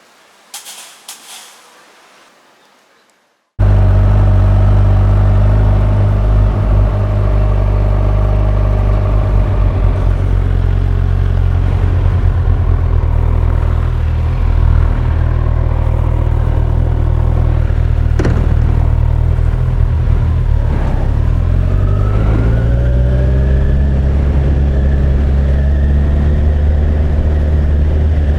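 Kawasaki Ninja 1000SX inline-four engine running steadily under way, cutting in suddenly about three and a half seconds in after a near-quiet start. Around twenty seconds in its pitch drops briefly, then climbs as it accelerates.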